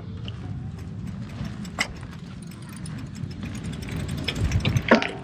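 Low rumble of wind buffeting the microphone during a bicycle ride, growing gustier toward the end, with two sharp clicks: one about two seconds in and a louder one near the end.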